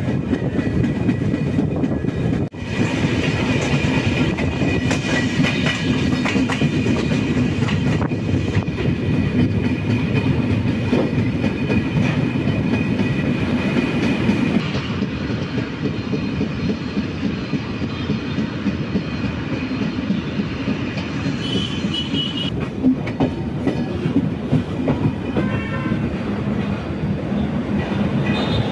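Kongu Superfast Express passenger train running, its wheels clattering on the track in a steady rumble, with a momentary drop in the sound about two and a half seconds in.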